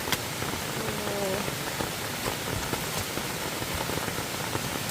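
Steady hiss of water, a forest stream running high after heavy rain, with scattered drip-like ticks.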